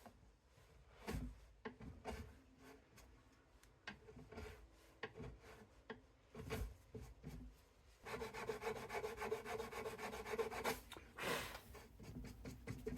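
Faint hand-work on birch plywood: irregular rubbing and scraping strokes with small knocks, turning into a steadier, fast rasping from about eight seconds in.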